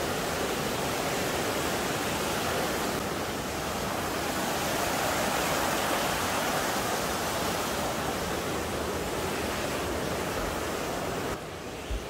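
Mountain stream rushing and splashing over granite ledges and boulders in a small cascade, a steady full water noise that drops a little near the end.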